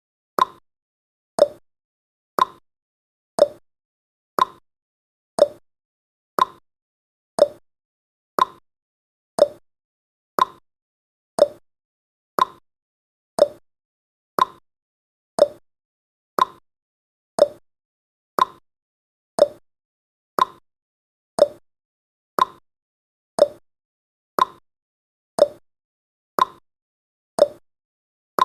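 Clock ticking sound effect: a steady tick-tock of sharp clicks, about two a second, alternating between a higher and a lower click.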